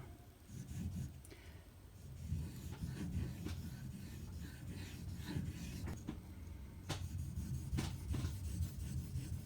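Knife blade being stroked on a Shapton Pro 5000-grit waterstone, a soft rubbing scrape, with creaking from the plywood flooring underfoot.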